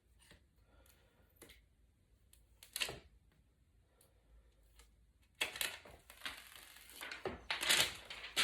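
Protective plastic film being peeled off the inside of a replacement iPad digitizer: scattered crinkles and clicks, then a denser run of crackling from about five seconds in.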